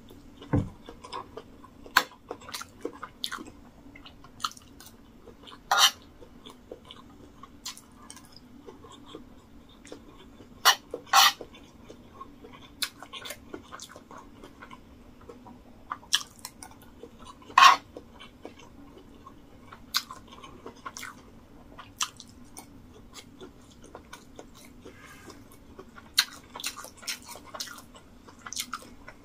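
Close-up chewing of a mouthful of rice and stewed meat, with scattered sharp clicks, a few of them much louder than the rest. A faint steady hum runs underneath.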